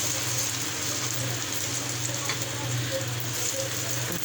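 Eggs frying in hot oil on a tawa over a high flame: a steady sizzle.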